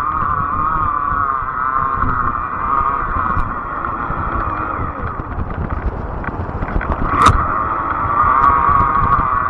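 A fat-tire e-bike riding along: a steady, slightly wavering whine with a low rumble underneath, and a sharp click about seven seconds in.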